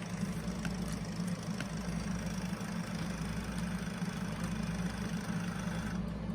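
Toshiba RT-8056 boombox's cassette mechanism winding the tape at speed to find a song, a steady motor whir with hiss.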